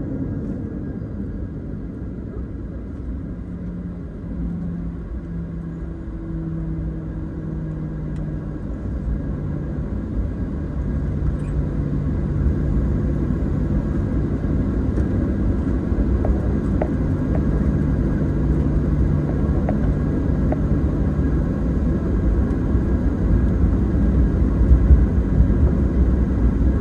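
Boeing 737-900 passenger cabin: the jet's engines and airframe give a steady low rumble with a constant hum, growing slowly louder toward the end.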